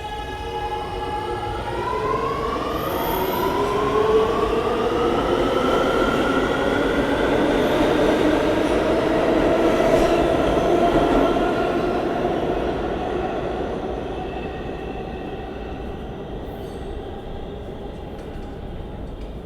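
New York City Subway R211 train accelerating out of a station: its propulsion motors whine in several rising tones over wheel and rail rumble. The sound builds to its loudest about ten seconds in, then fades as the train pulls away.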